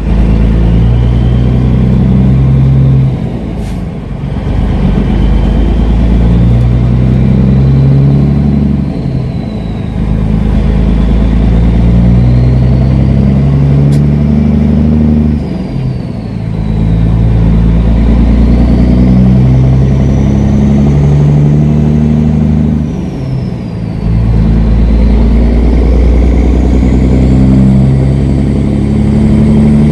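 Kenworth W900L semi truck's diesel engine pulling away and accelerating up through the gears. The engine note drops away briefly four times as the gears are shifted, and a high whine rises and falls along with each gear.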